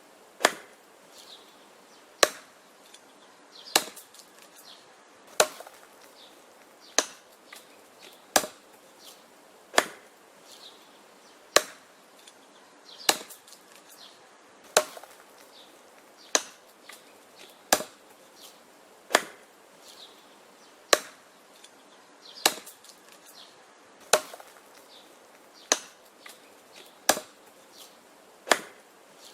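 Wood being chopped: sharp, evenly paced strikes about every one and a half seconds, some louder than others.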